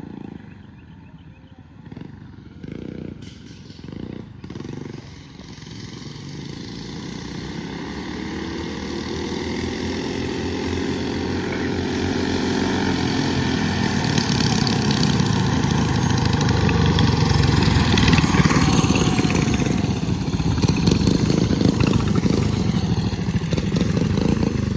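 Minibikes with small single-cylinder engines accelerating hard from a standing start in a drag race, the engines revving up in pitch and growing steadily louder from about six seconds in, loudest a few seconds before the end.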